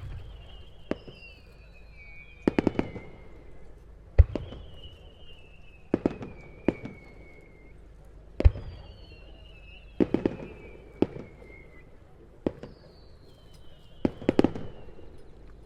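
Daytime display fireworks going off in a steady sequence. Single sharp booms come roughly every four seconds, with quick clusters of crackling reports between them, over long whistles that fall slowly in pitch.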